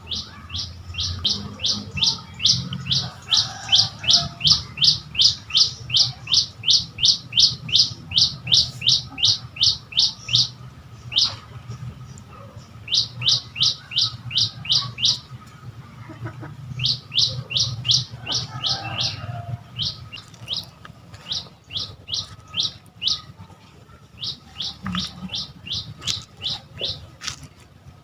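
A bird calling in long runs of rapid, evenly repeated high chirps, about three or four a second, breaking off for a second or two now and then before starting again, over a low rumble.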